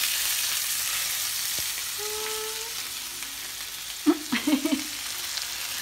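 Pork chops frying in butter in a pan, a steady sizzling hiss, with brief voice sounds about two and four seconds in.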